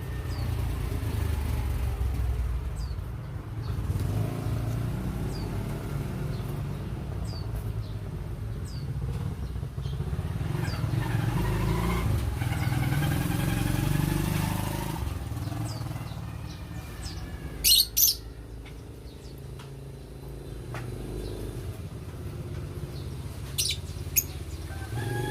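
African lovebirds chirping: brief high falling chirps every second or two, with two loud shrill calls in the second half, over a steady low rumble of vehicle traffic.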